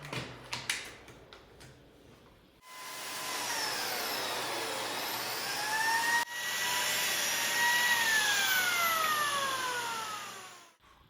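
A few light knocks, then an electric power tool's motor runs with a whining hum. The motor starts about two and a half seconds in, cuts out briefly and starts again louder. Its whine rises, then falls steadily as it winds down near the end.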